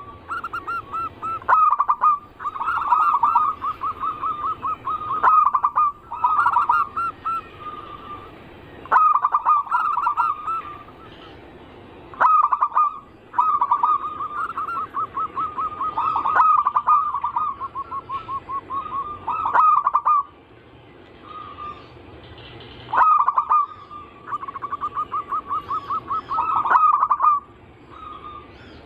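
Zebra doves (perkutut) cooing: repeated phrases of rapid, rolling notes, one after another, separated by short pauses.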